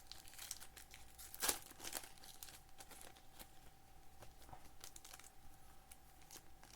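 Foil wrapper of a trading-card pack crinkling and tearing as it is opened: a run of short, irregular crackles with one louder rip about a second and a half in.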